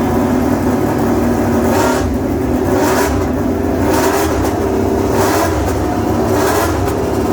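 A motor vehicle's engine running steadily at a constant pitch, with a faint rise and fall about once a second.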